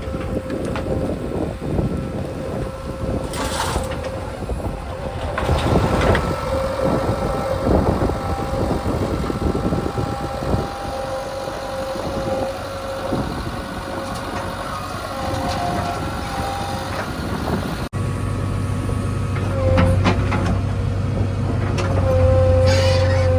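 Heavy diesel vehicles on the move: engine noise with a steady high tone over it. About three-quarters of the way through, a cut brings in a closer, deeper engine drone.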